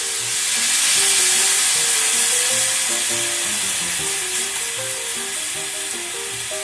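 Cold water poured into a hot saucepan of pork and leek frying in sesame oil: the oil hisses and steams. The hiss is loudest about a second in, then slowly eases to a gentler sizzle. Soft background music plays underneath.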